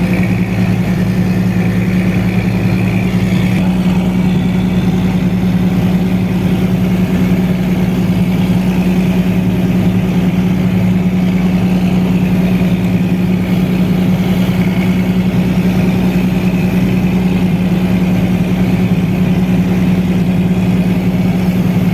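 An engine running steadily at one constant pitch, loud and close.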